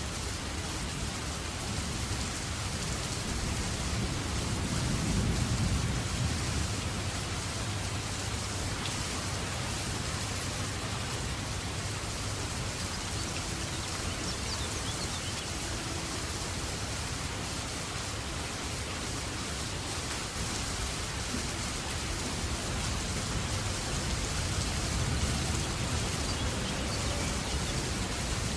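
Steady rain falling, an even hiss with no break. A low rumble swells about five seconds in and again near the end.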